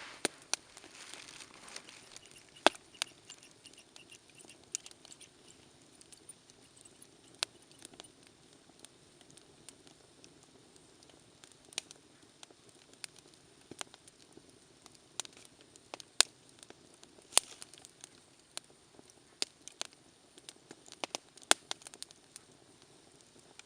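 Wood campfire crackling, with irregular sharp pops and snaps over a faint steady hiss of flame. A soft rush of flame fades out in the first couple of seconds.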